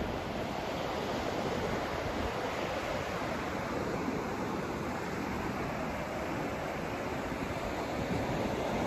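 Steady white noise for sleep, an unbroken hiss weighted toward the lower, deeper end, with no changes or separate events.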